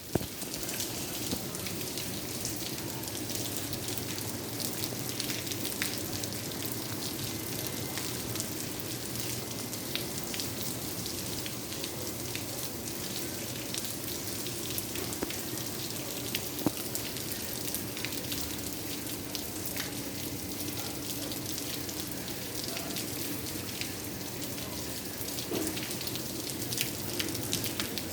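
Steady rain falling, a dense patter of individual drops.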